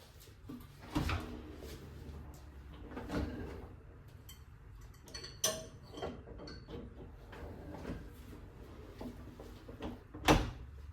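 Kitchen handling sounds: a few separate knocks and clunks as things are picked up and set down, the loudest one near the end, over a low steady hum.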